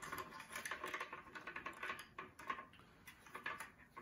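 Faint, irregular light clicks and rustling of plastic parts being handled as a charging cable is pushed and routed into a vacuum cleaner's plastic wall charging dock.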